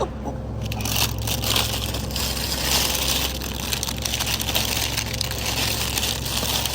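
Plastic packaging crinkling and rustling as it is handled, a dense crackle with many small clicks starting about half a second in, over a steady low hum.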